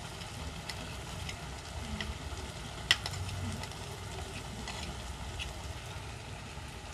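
Ground spice paste frying in hot oil in a nonstick wok, a steady sizzle, with a few light clicks of a metal spoon scraping seasoning from a plastic tray and one sharper tap about three seconds in.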